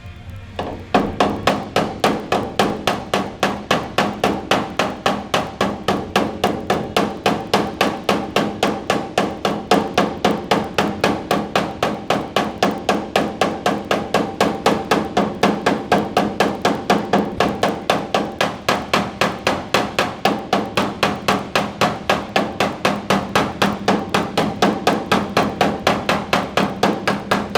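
Body hammer tapping steadily on the steel bedside panel of a Ford F-150 to work out a dent, about four strikes a second. The metal rings with each blow. The taps are harder than on a flat panel because this is a curved area.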